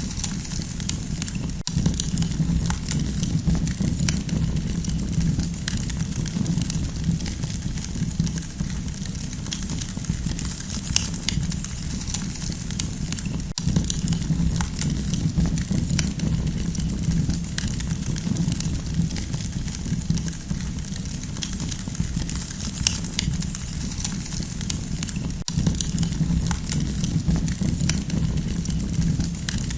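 Campfire burning: frequent, irregular sharp crackles and pops over a steady low rumbling hiss.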